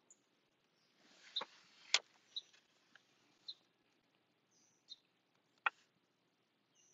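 Faint, scattered short bird chirps, with a few sharp clicks, the loudest about two seconds in and another near the end.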